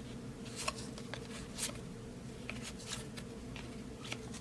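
Trading cards being handled and flicked through, giving light scattered clicks and rustles, about half a dozen over a few seconds.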